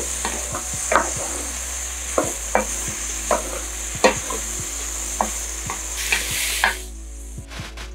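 Chicken, zucchini and broccoli frying in butter in a pot, sizzling steadily, while a wooden spoon stirs them and knocks against the pot several times. The sizzling stops about seven seconds in.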